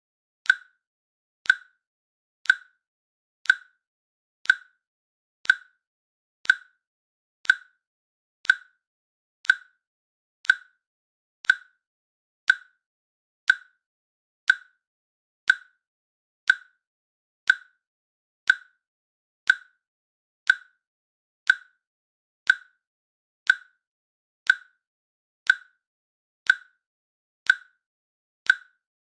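A countdown timer's click sound, one short sharp click every second, ticking off the seconds with silence between the clicks.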